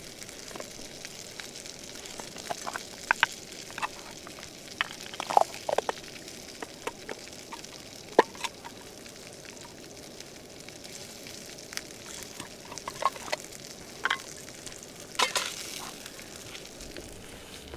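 Breakfast sausages frying in a pan: a steady sizzle broken by irregular sharp pops and spits of fat.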